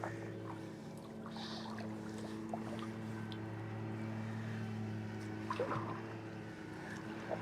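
Kayak paddle strokes in calm water: faint dipping and dripping, with a small cluster of splashes a little past halfway. A steady low hum runs underneath.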